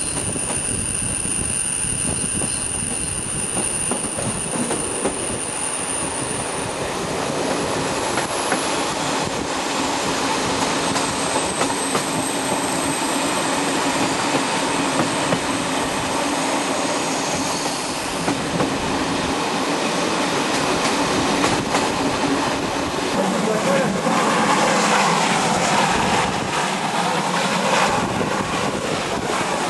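A train rolling along the track, hauled by the steam locomotive BDZ 46.03: a steady rolling noise with scattered rail clicks, and a thin, high wheel squeal that fades out in the first several seconds.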